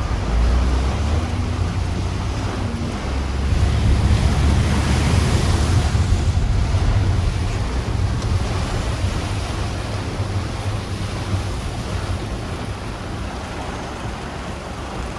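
Typhoon wind and heavy rain, with the wind buffeting the microphone as a deep rumble. A stronger gust builds about four seconds in, then slowly eases.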